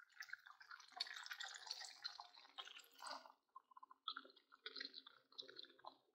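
Grated apples soaked in milk faintly sizzling and crackling in melted butter in a kadhai, with a scatter of small pops and spits.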